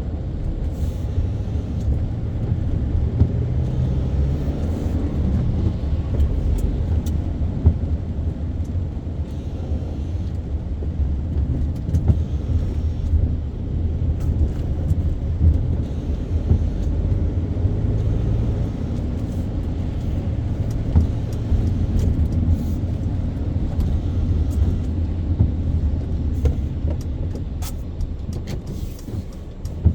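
A car being driven, giving a steady low rumble of engine and road noise, with scattered small clicks and ticks.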